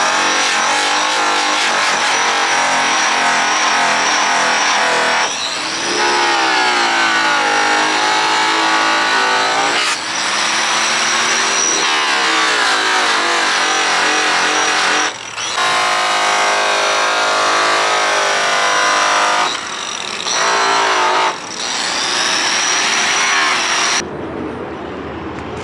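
Electric rotary polisher (buffer) running at speed, a high steady whine over a stack of motor tones. Its pitch sags and recovers as it is pressed onto the surface and eased off. The sound breaks off briefly several times and drops away abruptly near the end.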